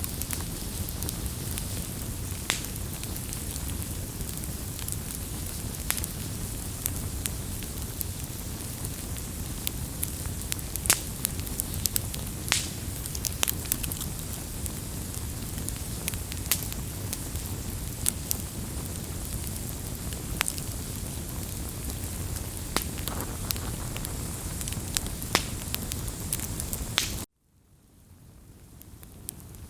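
Wood fire crackling: a steady low rush with many sharp, irregular pops. Near the end it cuts out abruptly, then fades back in.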